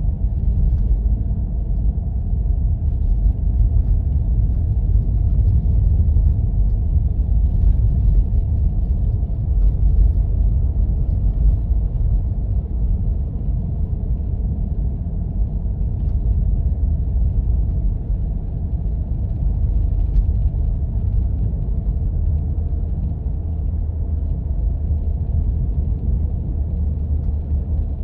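Steady low rumble of a Jeep driving on snow-covered roads, engine and tyre noise together, with faint scattered clicks over it.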